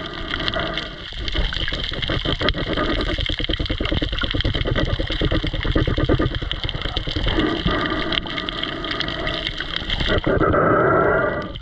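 Water noise around a camera on a spearfishing dive: a steady rush and gurgle with a dense, rapid crackle of clicks through the middle.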